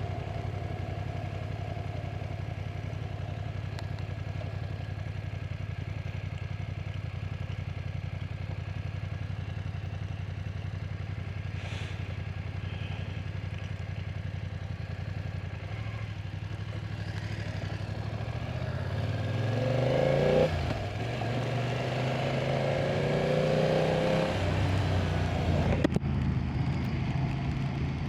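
BMW F900R's 895cc parallel-twin engine running steadily under way, then accelerating: the revs rise, drop at a gear change, and rise again through the next gear, with a short sharp click near the end.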